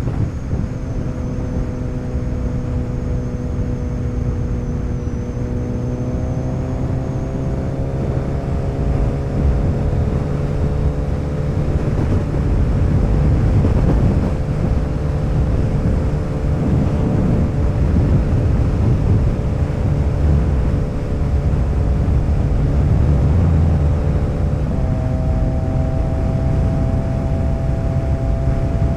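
Motorcycle engine running under way at a steady cruise, with wind and road noise. The engine note rises a little about six seconds in and steps up again near the end.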